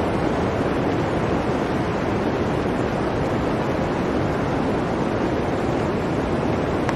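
Blizzard wind blowing steadily as an even rushing noise, with no gusts or breaks.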